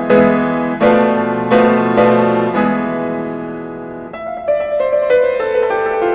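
Piano playing: full chords struck about every 0.7 seconds, each ringing and fading, then from about four seconds in a run of quicker, lighter notes.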